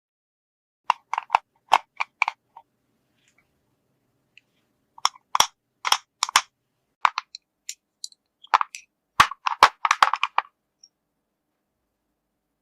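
Small plastic toy-kitchen pieces clicking and tapping against each other in short runs: one group about a second in, more from about five to seven seconds in, and a dense cluster around nine to ten seconds.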